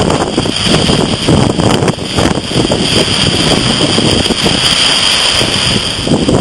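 Strong hurricane wind buffeting the microphone in heavy gusts, over the rush of breaking surf.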